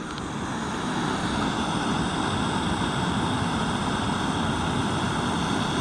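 Road traffic going by: a steady rushing of vehicles and tyres that swells over the first second and then holds level.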